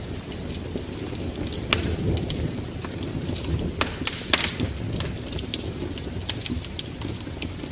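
Wood fire in a fireplace crackling, with sharp irregular pops over a low steady rumble.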